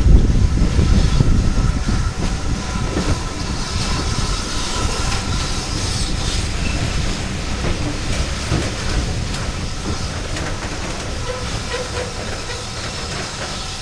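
Railway carriage wheels rumbling and clicking on the track, heard from an open carriage window as the train runs slowly along a station platform. The rumble fades steadily as the train slows, and a thin steady whine runs under it.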